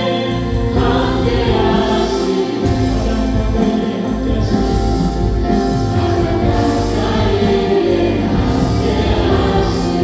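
Live contemporary Christian worship music: a praise band with keyboards, guitars, bass and drums playing while singers hold long sung notes.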